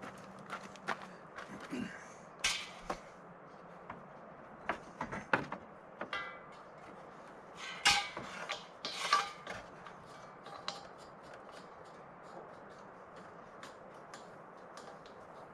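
Irregular clicks, knocks and creaks, the kind made by things being handled, with a cluster of louder knocks about halfway through.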